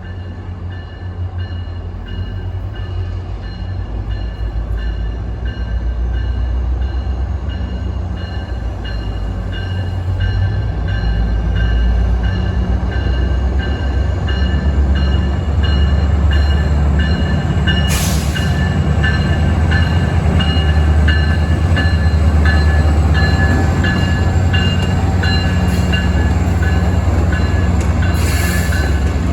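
A train running past, its low rumble building steadily louder, with thin high ringing tones and fast regular clicking over it. Two short hissing bursts cut in, about two-thirds of the way through and again near the end.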